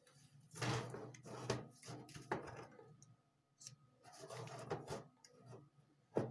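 Small tools and parts being handled on a jeweller's workbench: irregular rustling and clicking, with a sharp click near the end.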